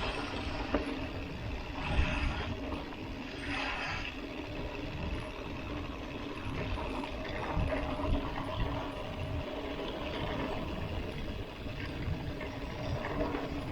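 Mountain bike rolling along a dirt track: steady rolling and rattling noise from the tyres and bike, with a few sharp knocks from bumps.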